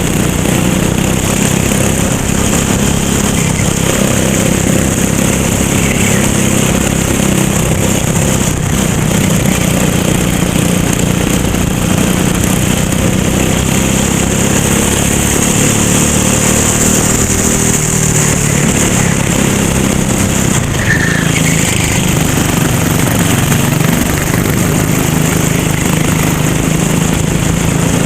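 Racing kart engine running continuously at a fairly steady speed, heard close up on board, with a steady hiss over it.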